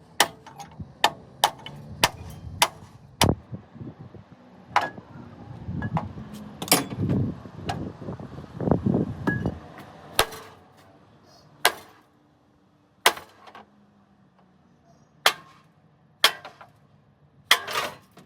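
Hammer blows on metal: a quick run of strikes at first, then single strikes a second or two apart, with a louder low rumbling stretch in the middle.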